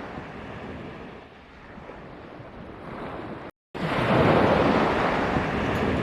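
Sea waves washing onto a beach, with wind buffeting the microphone. The sound cuts out for a moment about three and a half seconds in and comes back louder.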